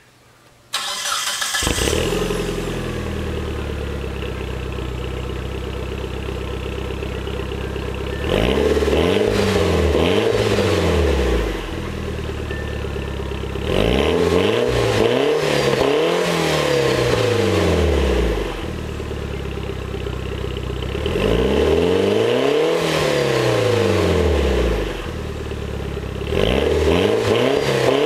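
Mitsubishi Lancer Evolution VII GT-A's turbocharged 4G63 inline-four starting about a second in through a 5ZIGEN Pro Racer aftermarket muffler. It settles to a steady idle, then is revved up and let fall back four times, each rise and fall lasting a few seconds, the last near the end.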